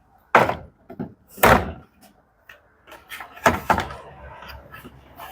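A series of hard knocks and clunks, about five loud ones, the loudest about one and a half seconds in, from panels or tools being handled on a washing machine under repair.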